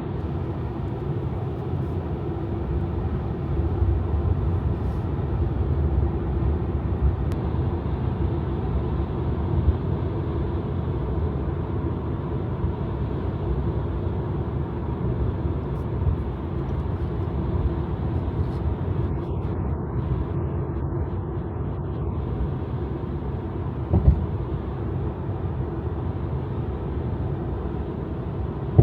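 Steady road and tyre rumble inside a Tesla electric car at highway speed, with no engine sound. A single short thud about 24 seconds in, like a tyre hitting a joint in the road.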